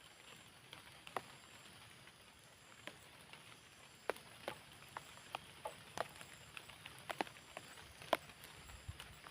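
Irregular sharp taps and clicks over a faint steady hiss, sparse at first and coming several a second from about four seconds in.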